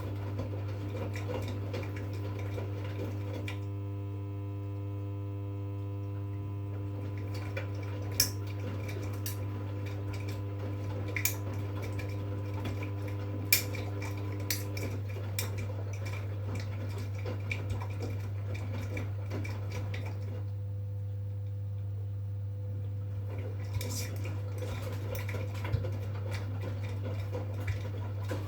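V-Zug Unimatic SL washing machine running a wash cycle: a steady motor hum under scattered sharp clinks and clicks as the laundry tumbles in the steel drum. A whining tone on top of the hum stops about halfway through.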